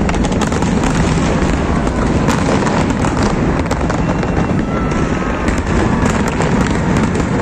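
Fireworks display in full barrage: many shells and fountains going off at once, a continuous low rumble with rapid crackling and pops on top, steady in loudness throughout.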